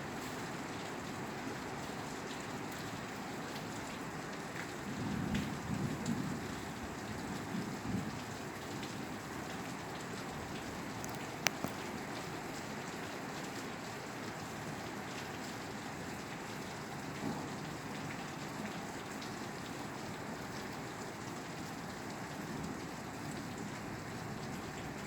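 Steady rain falling on a roof, with low thunder rumbles from about five to eight seconds in and again briefly later, and one sharp tick near the middle.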